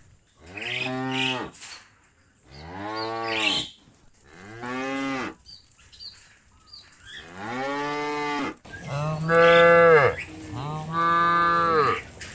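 Cattle mooing repeatedly: about six long moos one after another, each rising and then falling in pitch. The loudest comes near the end.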